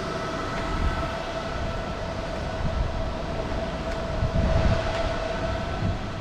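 MEEPO Shuffle S V4 ER electric skateboard riding at a steady speed: a steady whine from its hub motors over the rumble of the wheels, with wind buffeting the microphone.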